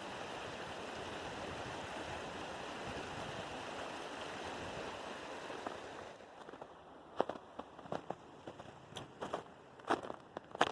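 Steady rush of a mountain creek, which fades out about six seconds in. It gives way to uneven footsteps in melting snow.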